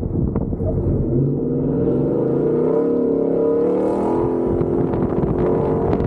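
Ford F-150 Raptor's V8 engine pulling hard at high revs on a dirt track, its pitch held fairly steady. Rumbling and knocking from the truck going over rough ground come first and return near the end.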